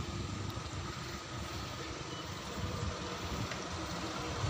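A motor vehicle's engine running with a low, steady rumble.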